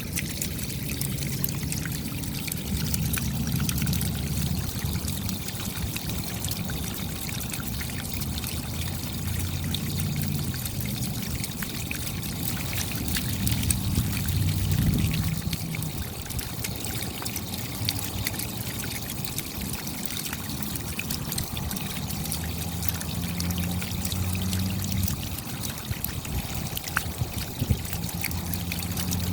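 Steady rain: a constant hiss of water thick with the sharp ticks of individual drops, with a low hum underneath that swells and fades at times.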